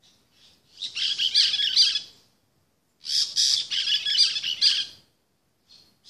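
Parrots calling in two bursts of harsh, rapid chattering, each about a second and a half long, with a short call near the start and another near the end.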